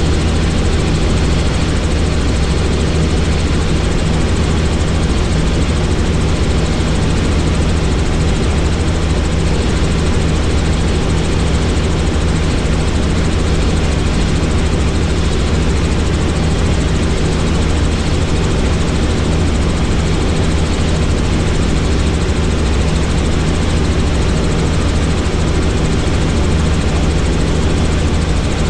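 Helicopter in steady cruising flight: a constant, loud drone of the engine and rotors with rushing air noise.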